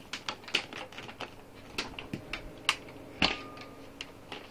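Power cord of a Panasonic MCE-465 vacuum cleaner being wound up by hand: a run of irregular light clicks and taps of cord and plug against the plastic body, with one louder knock about three seconds in.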